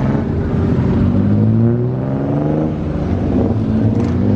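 Car engine accelerating, its pitch climbing for about three seconds, dropping back, then climbing again near the end.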